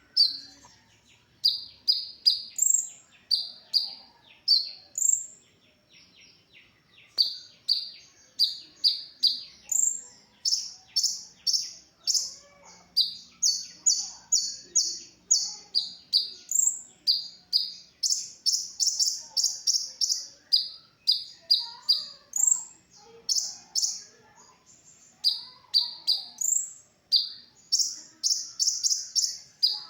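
Brown-throated sunbird (konin, kolibri ninja) calling: a long string of sharp, high chirps, several a second, in runs with short pauses between them.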